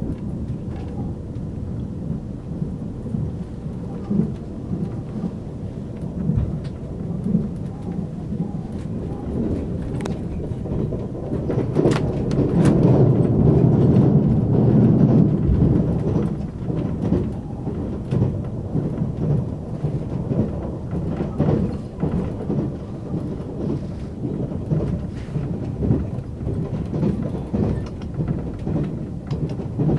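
Steady low rumble of a moving train heard from inside the carriage, with scattered short clicks and knocks from the running gear. The rumble swells for a few seconds in the middle as the train crosses a bridge.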